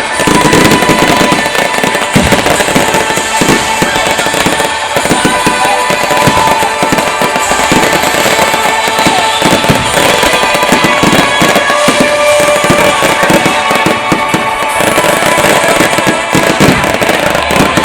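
Fireworks display going off continuously, a rapid stream of bangs and crackles many times a second, with music playing alongside.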